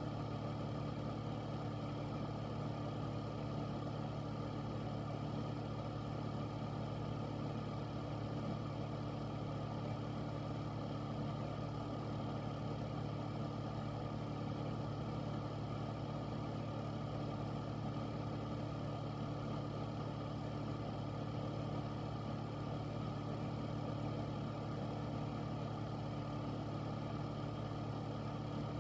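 Air filter running steadily: a constant rush of air with a low hum that does not change.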